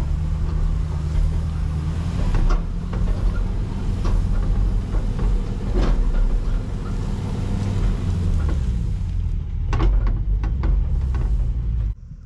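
A vehicle engine running under load, with clanks and rattles over it. It cuts off abruptly near the end, leaving insects chirring.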